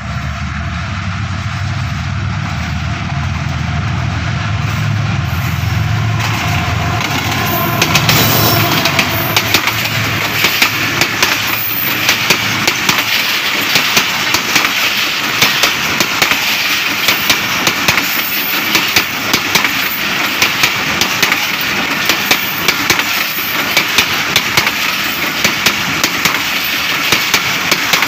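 Pakistan Railways GEU-40 diesel-electric locomotive approaching and passing with a deep engine rumble. Then its passenger coaches roll by at speed, their wheels clacking rhythmically over the rail joints.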